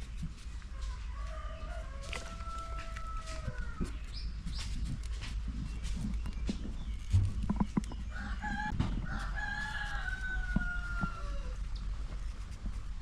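Rooster crowing twice: one long crow about a second in and another about eight seconds in, with scattered clicks and knocks between them.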